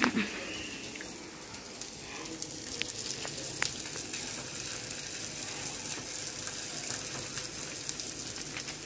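Corn fritter patties frying in butter on a hot pan, a steady sizzling hiss, with a few light clicks.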